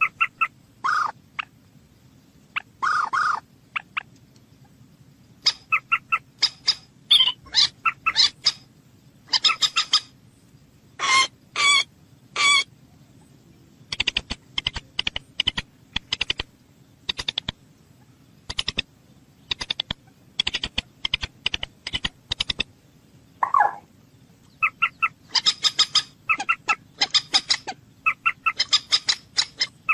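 Common moorhen calling: short, sharp, pitched calls repeated in irregular clusters, some in quick runs of several a second, over a steady low background hum.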